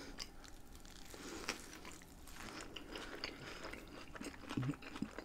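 A person chewing a mouthful of Beyond Meat burger close to the microphone: faint, wet eating sounds with a few small clicks.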